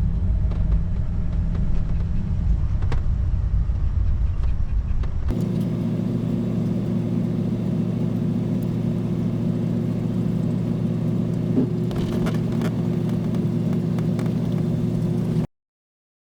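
RV being driven slowly on a rough road: steady engine and road rumble. About five seconds in the sound changes abruptly to a steadier engine hum, which cuts off suddenly near the end.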